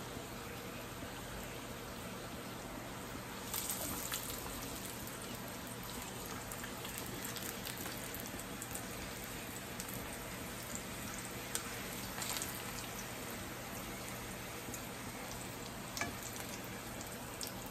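Corn tortillas frying in a skillet: a steady sizzle, with brief louder crackles about three and a half seconds in and again about twelve seconds in, and a few light clicks as the metal tongs turn them.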